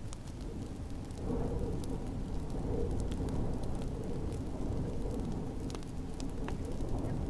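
A wood fire crackling, with scattered sharp pops, over a steady low rumble of storm wind.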